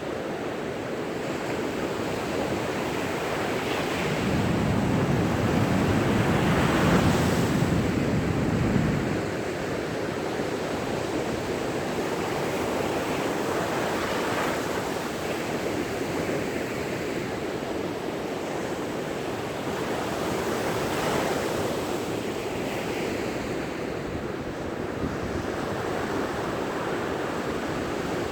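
Ocean waves breaking and washing onto the beach, with the loudest surge of surf about four to nine seconds in and smaller ones later. Light wind noise on the microphone.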